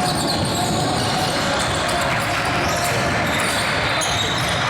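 A basketball bouncing on a gym floor during play, with indistinct voices echoing in the large hall.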